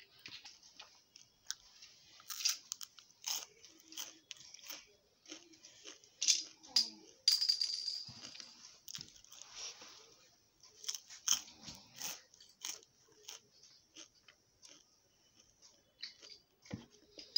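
A chocolate-coated cream wafer stick being bitten and chewed, with crisp crunching and clicks in irregular bursts.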